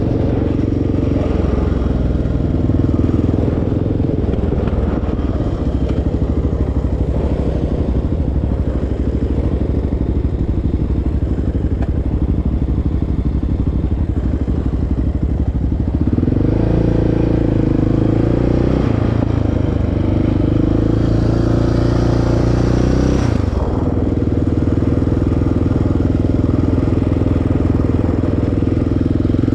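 Single-cylinder sport quad engine running along an off-road trail, its note shifting with the throttle about halfway through and again briefly near the end.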